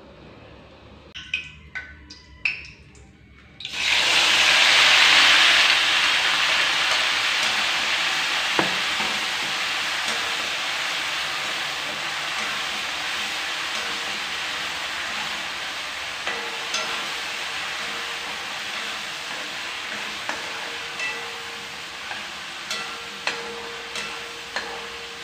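A few light clinks, then about four seconds in a sudden loud sizzle as food goes into hot oil in a wok. The frying sizzle slowly eases while a wooden spatula stirs, with light taps of the spatula on the pan in the later part.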